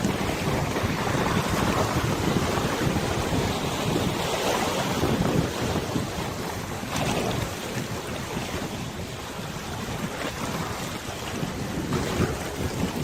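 Wind buffeting the microphone over the wash of river water, rising and falling in gusts.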